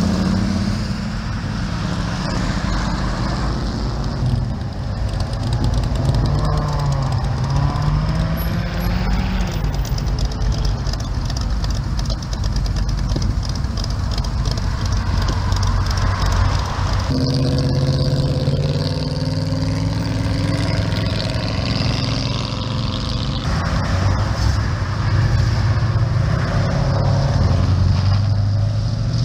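Car engines, one vehicle after another, running and pulling away. Their pitch rises and falls as they accelerate, and a different engine takes over about halfway through.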